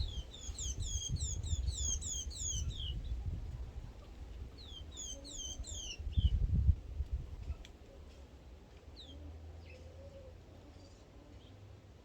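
A small bird chirping in quick runs of short, high, falling notes, many in a row over the first few seconds and again around five seconds in, then only now and then. Under it a low rumble, with a louder low thud about six and a half seconds in.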